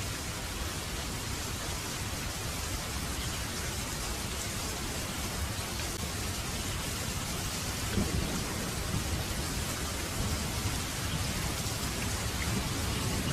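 Heavy rain falling steadily in a dense, even hiss. Low rolls of thunder come in about eight seconds in and build again near the end.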